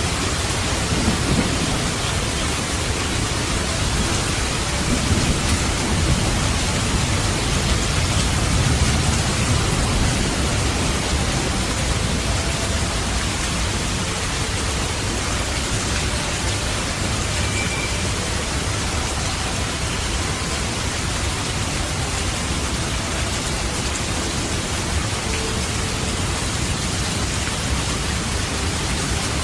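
Steady heavy rain hissing, with a low rumble of thunder through roughly the first ten seconds that then fades under the rain.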